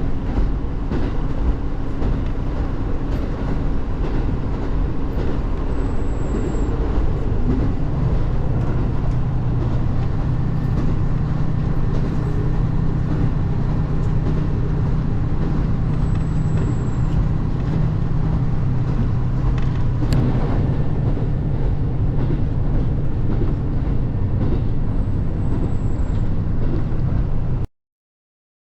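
Diesel train running along the track, a steady rumble with an engine note that rises and holds steady from about seven seconds in; the sound cuts off abruptly near the end.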